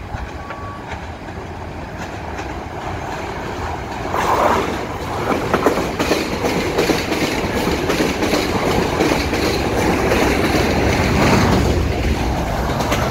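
Commuter train passing underneath: a rumbling run of coaches with the wheels clicking on the rails. It grows suddenly louder about four seconds in, as the train reaches the bridge.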